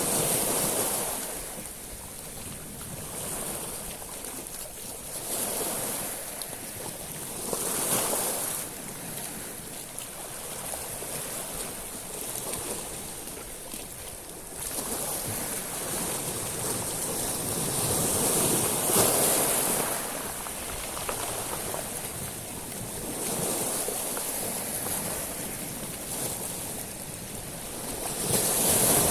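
Sea waves breaking on a shingle beach of small stones. Each wave surges in with a loud high hiss, then ebbs, every few seconds; the strongest comes about two-thirds of the way through.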